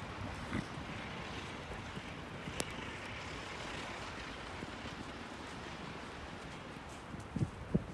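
Steady wind noise and a low rumble in a heavy snowstorm, with a couple of soft thumps near the end.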